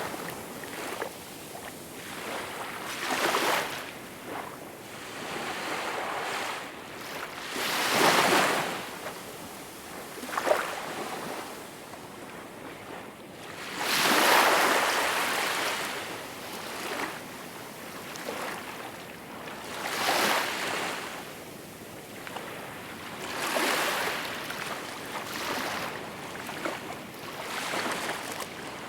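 Small waves washing onto a shore, rising and falling in soft surges every few seconds over a steady hiss of water. A single brief sharp tick stands out about ten seconds in.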